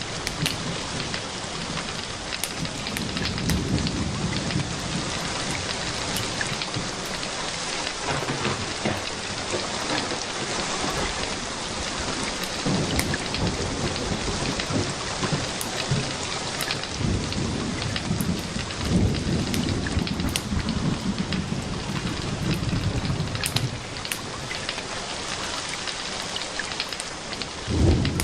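Steady rain, with low thunder rumbling in and fading out several times, and scattered sharp ticks of drops or crackles.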